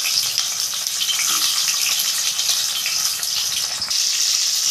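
Whole bitter gourds frying in hot oil: a steady, loud sizzling hiss with small crackles. The water still held in the steamed, squeezed gourds makes the oil sizzle hard.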